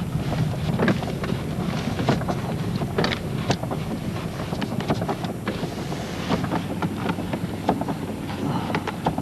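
Minivan driving slowly over a snow-covered road, heard from inside the cabin: a steady low road rumble with irregular crunching and crackling from the tyres on snow and ice.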